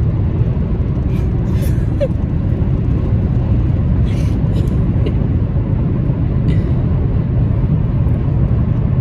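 Steady road and engine rumble inside a moving car's cabin, with a few brief clicks.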